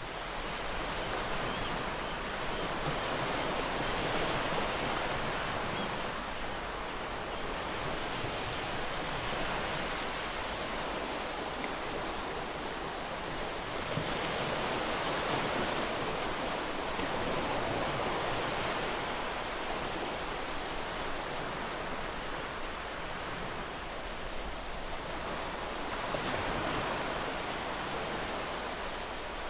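Ocean surf breaking and washing onto a shore: a steady hiss of waves that swells and eases every few seconds.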